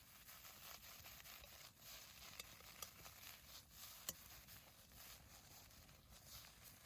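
Faint crackling of a wood campfire under a cooking pan, a light steady hiss broken by a few sharp pops.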